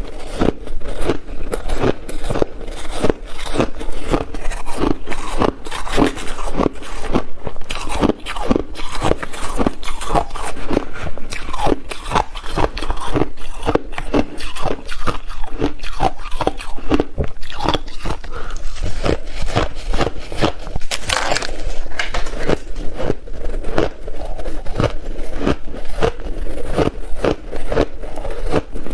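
A person biting and chewing ice close to the microphone: steady crunching, a few crunches a second.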